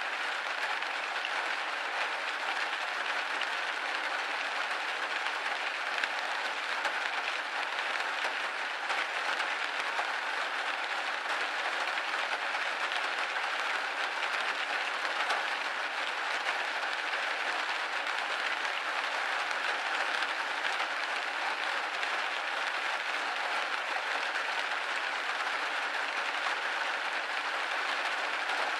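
Steady rain pattering on a window pane, a dense even spray of small drop ticks with no thunder or let-up.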